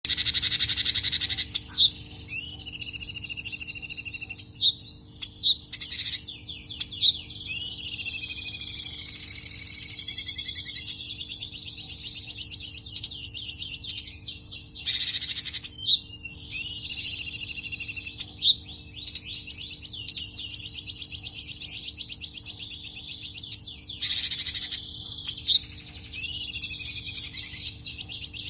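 Grey-headed songbird ('cungko') singing a fast, jumbled, almost unbroken song of rapid chirps, trills and sliding whistles, with only short pauses. This is the frenzied 'konslet' style prized by songbird keepers. A faint steady hum runs beneath it.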